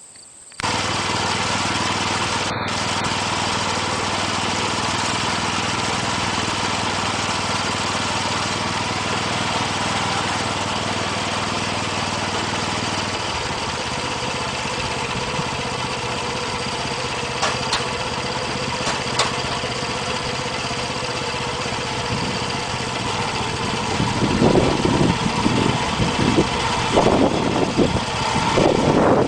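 The small gasoline engine of a Boaz mini combine running steadily at low throttle, cutting in abruptly about half a second in. Its low tone shifts about halfway through, and in the last few seconds louder, uneven rumbling and knocking join it as the machine works.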